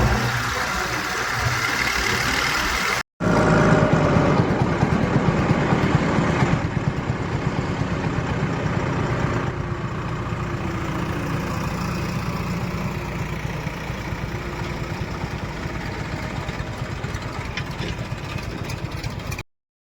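Heavy machinery diesel engine running steadily. The sound drops out completely for a moment about three seconds in and again near the end.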